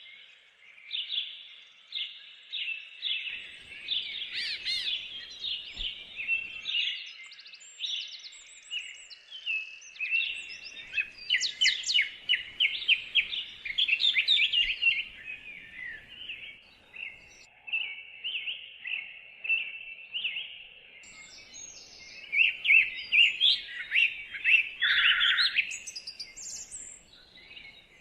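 Several songbirds singing at once in a dense woodland chorus of quick high chirps and trills, thickest around the middle and again near the end.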